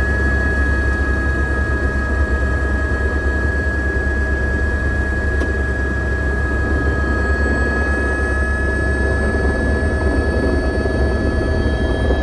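Helicopter running steadily: a deep, fast rotor beat with a high, steady turbine whine over it.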